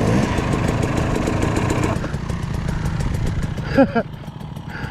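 Dirt bike engine idling steadily, with a louder layer of engine noise that drops away about two seconds in. A short spoken word comes through near the end.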